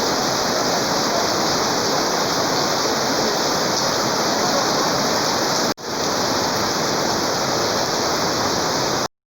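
Heavy rain falling, a steady dense hiss. It breaks off for an instant about six seconds in and stops abruptly just before the end.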